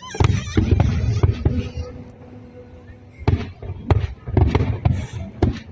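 Fireworks shells bursting in rapid volleys of bangs. There is one dense cluster in the first two seconds, then a short lull, and another run of bangs from about three seconds in.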